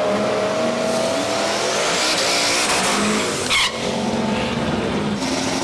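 Drag racing car engine running hard with tyre squeal, as in a burnout at the start line. There is a brief sharp change in the sound a little past halfway.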